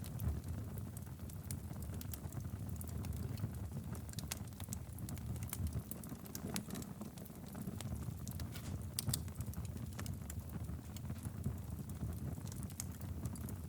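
Wood fire burning in a fireplace: a steady low rumble of flames with irregular crackles and pops throughout.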